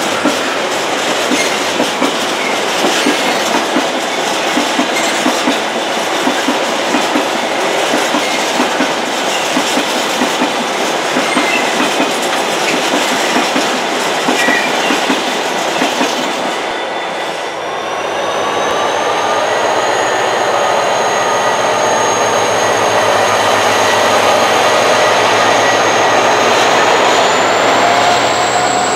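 Diesel-hauled freight train on the move: wagons clattering rhythmically over the rail joints, then from about two-thirds of the way in a steady whine that rises slightly in pitch near the end.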